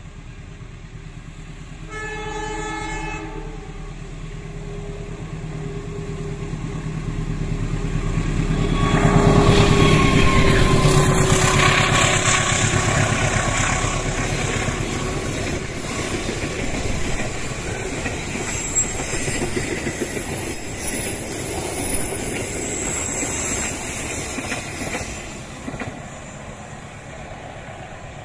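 Passenger train hauled by a CC 201 diesel locomotive: a short horn blast about two seconds in, then the locomotive's engine growing louder as it comes close and passes, loudest about a third of the way in. The coaches follow with wheels clattering over the rail joints, slowly fading.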